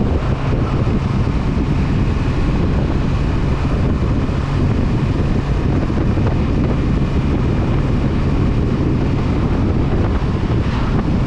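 Honda CB500F's parallel-twin engine running steadily at cruising speed under heavy wind noise on the microphone. Loud and even throughout, with no gear changes or revving standing out.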